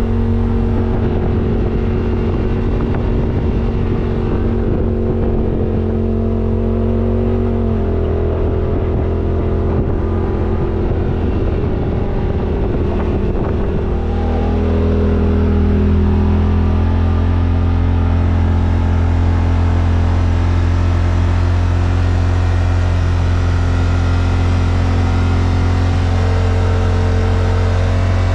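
Yamaha RMAX side-by-side's engine running steadily while riding, shifting pitch about eight seconds in and again around fourteen seconds, a little louder after that.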